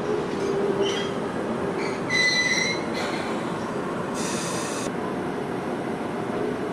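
Enoshima Electric Railway train running past a station platform, a steady rumble of wheels on rails with a hum that fades out around two seconds in. Short high-pitched wheel squeals come near one second, more strongly a little after two seconds, and again as a shrill, hissier squeal around four seconds in.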